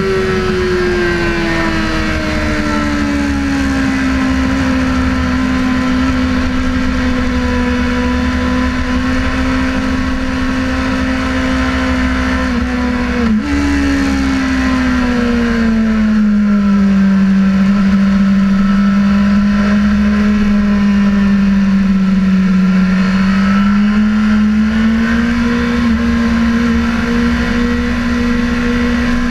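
Sportbike engine running at steady high revs with wind noise. The note falls gradually, jumps up abruptly about halfway through like a downshift, sinks again, then rises slightly near the end.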